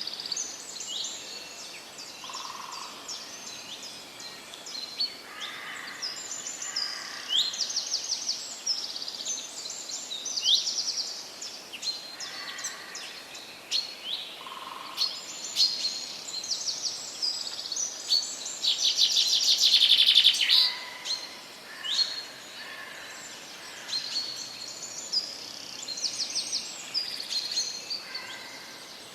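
Forest songbirds singing, several overlapping voices with short high chirps, whistles and fast trills; the loudest, densest trill comes about two-thirds of the way through. A faint steady hiss lies underneath.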